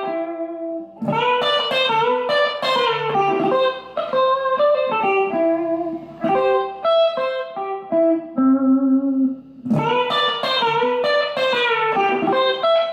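Electric guitar playing single-note country lead licks built on a C major arpeggio, with string bends. There are two phrases, split by one held note about eight seconds in.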